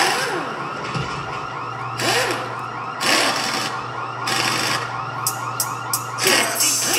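Electronic sound effects played through the theatre's speakers: a rapidly repeating whine that sweeps up and down like a siren, over a steady low hum, broken by several short bursts of hiss.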